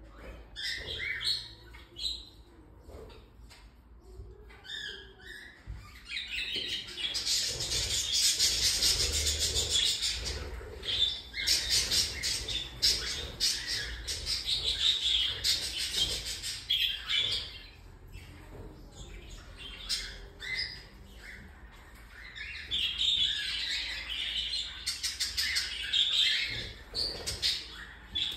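Baby cockatiel chicks calling in rapid, rasping runs of short calls. There are a few scattered calls at first, then two long, louder spells of continuous calling.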